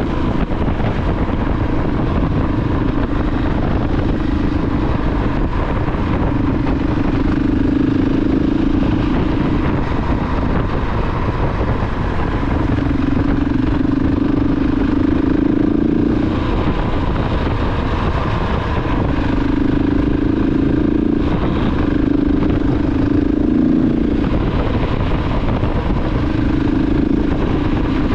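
KTM 690 Enduro R's single-cylinder engine running while the bike is ridden. The engine note swells and fades every few seconds over a steady rush of wind and road noise.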